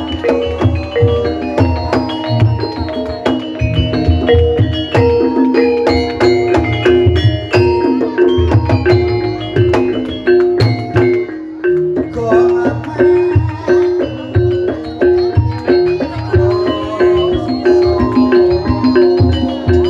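Javanese gamelan ensemble playing a fast repeating melody on struck keyed instruments over steady drum beats, the accompaniment for ebeg trance dancing.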